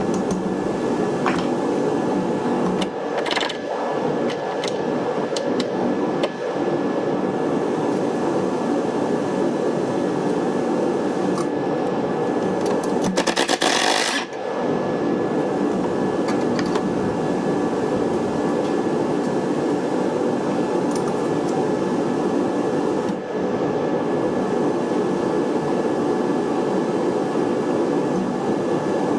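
A steady mechanical hum with a faint whine, broken by a few sharp clicks and a brief rapid clatter about halfway through.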